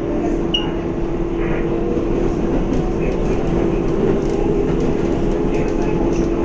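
7 local subway train running at speed between stations, heard from inside the car: a steady rumble of wheels on rail with a constant motor whine.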